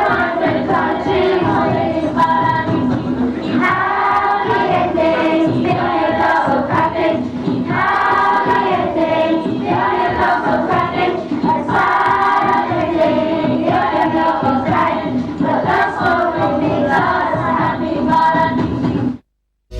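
A choir of voices singing together in repeated phrases. It cuts off suddenly near the end.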